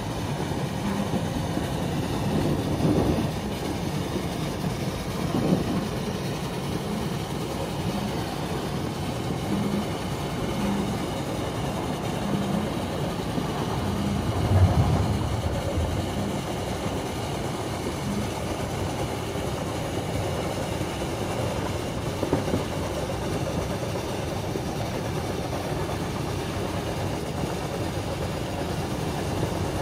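Steam train carriage running along the track, heard from inside a passenger compartment: a steady rumble of wheels on rails. For a stretch in the middle the wheels knock over rail joints about every second and a half, and there is a louder bump about halfway through.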